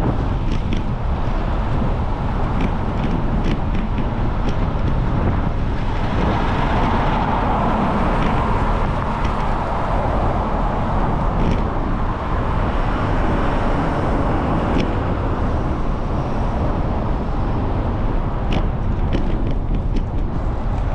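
Steady wind and road noise from riding a bicycle in traffic, with scattered light clicks.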